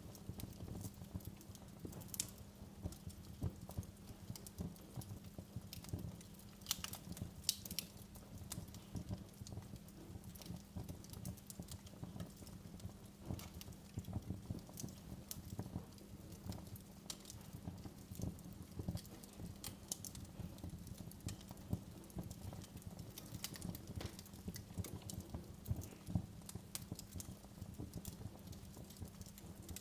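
Wood fire in a fireplace crackling, with many small irregular pops and a few sharper snaps over a low rumble.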